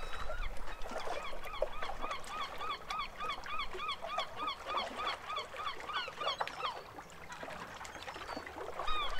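A bird calling a fast, even run of repeated short arched notes, about three a second, which fades out about six seconds in before a few more calls near the end.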